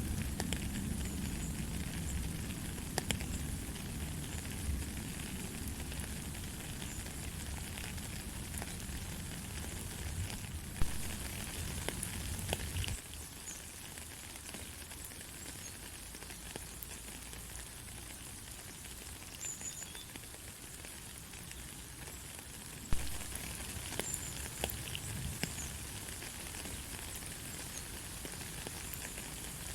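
Steady light rain hissing, with scattered drops ticking sharply on a surface. A low rumble under it cuts out abruptly about halfway and comes back later.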